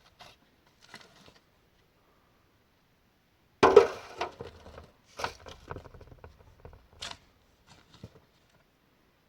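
A sudden loud crash followed by a string of clattering, cracking knocks over the next few seconds.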